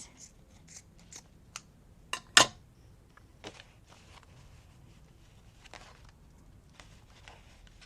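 Paper being handled on a crafting table: light rustles and small clicks as a paper ruffle is placed in a journal, with a sharp tap or click about two and a half seconds in.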